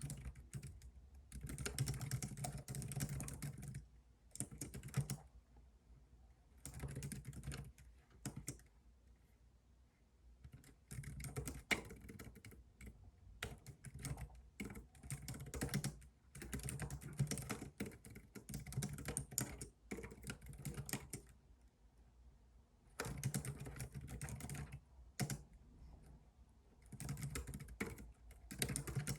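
Computer keyboard being typed on in runs of rapid key clicks lasting a second or two, broken by short pauses.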